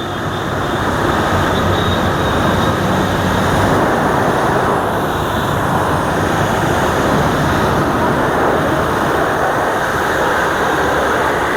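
Electric high-pressure washer (Btali BT 1000) spraying water to rinse off foam, a loud steady rushing hiss of the jet. It builds up over the first second and then holds even.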